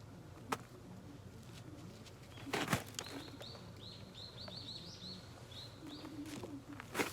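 A bird gives a run of short, high chirps for about three seconds in the middle. Before and after there are a few sharp knocks or crunches, the loudest just before the chirping starts.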